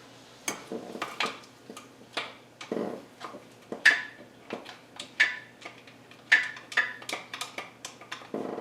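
Hand tools clinking and knocking against metal engine parts in irregular sharp strikes, about two a second, some ringing briefly.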